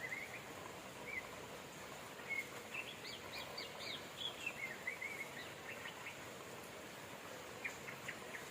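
Steady rain hiss with small birds chirping over it: a run of quick chirps in the middle and another short series near the end.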